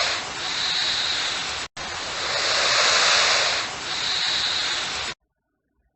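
Crocodile hissing: a loud, breathy hiss played twice, with a short break between, that cuts off about five seconds in.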